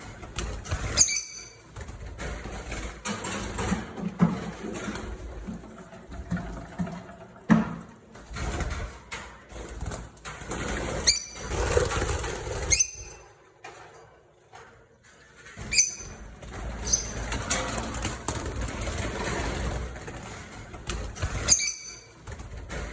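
Lovebirds in an aviary giving sharp, high chirps every few seconds. The chirps are heard over a constant noisy background of rustling and wing flutter.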